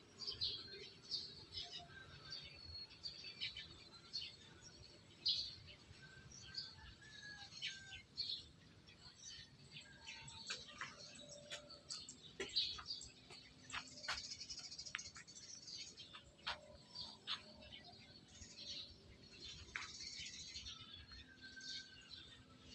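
Small birds chirping and twittering in many short, high calls, with scattered sharp clicks.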